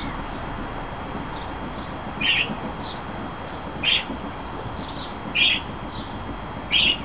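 A bird calling repeatedly: four short, loud calls about a second and a half apart, with fainter, higher chirps between them, over a steady hiss.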